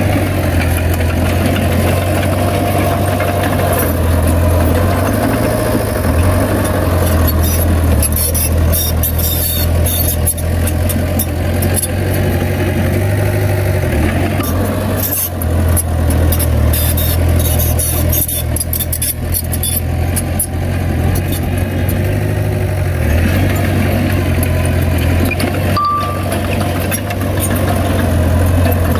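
Heavy diesel engine of earthmoving machinery running steadily with a deep, even drone. Through the middle stretch it is joined by quick, sharp metallic clicks and rattles.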